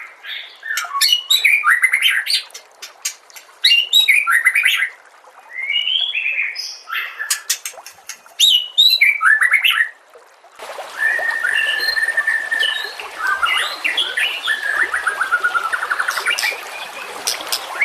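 Songbird song: quick chirps, trills and whistled phrases in short bursts with gaps between. About ten seconds in it cuts to a different recording with a steady hiss behind it, where a bird holds a long whistle and then runs into fast trills.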